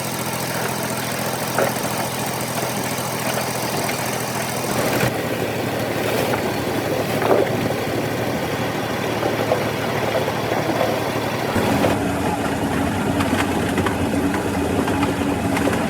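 Machinery running steadily, its tone changing abruptly about five seconds in and again near twelve seconds, when a steady low hum comes in.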